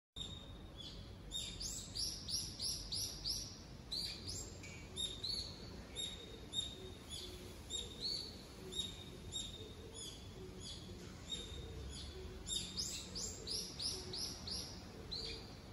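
Small birds calling in the trees: runs of quick, high chirps that sweep downward, about four or five a second, coming in bursts near the start and again near the end, with shorter, steadier notes in between.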